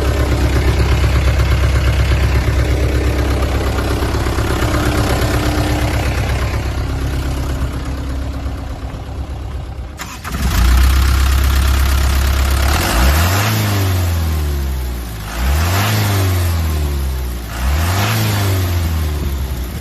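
Mitsubishi 4D35 four-cylinder diesel engine of a 1999 Canter truck idling steadily. About halfway through there is a sudden change, and it is revved three times, each rev climbing and falling back to idle.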